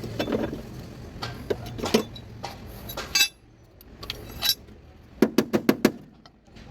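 Scattered sharp clinks and taps, like hard objects knocking together, with a quick run of about six clinks late on.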